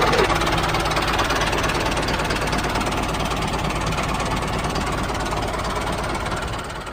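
DIY mini tractor's small engine running steadily with a fast knocking rattle, fading out at the very end.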